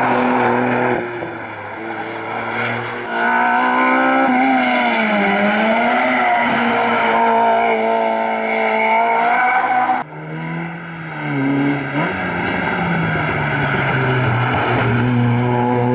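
Rally car engines revving hard at speed, their pitch rising and falling through gear changes. The sound changes abruptly a few times, as if cutting from one car to the next.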